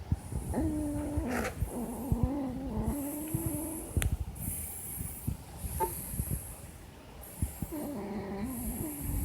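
A sleeping dog snoring: two long, droning snores with a wavering pitch, one starting about half a second in and another near the end, with a sharp click about four seconds in.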